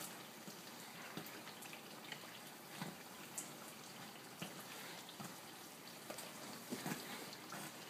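Johnny cakes frying in hot oil in a skillet: a steady, fairly quiet sizzle with scattered small pops and ticks as they are turned with a fork.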